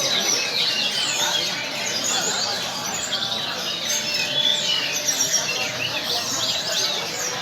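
Many caged songbirds singing at once, a dense chorus of overlapping chirps and quick whistled phrases with no pause.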